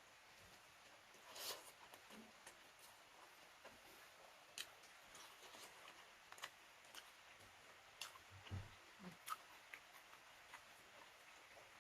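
Faint eating sounds: scattered small clicks and smacks from chewing, about one every second or two, with a couple of soft low thumps near the end.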